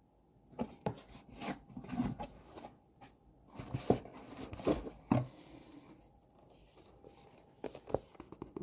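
Close-up handling noise: irregular rustles, taps and clicks of objects or packaging being moved about, busiest over the first six seconds, with a few more clicks near the end.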